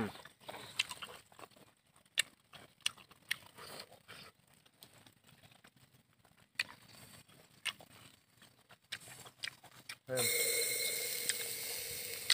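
Close, wet chewing clicks and lip smacks of someone eating grilled squid, irregular and sharp. About ten seconds in a steady louder hiss with a few held tones starts suddenly.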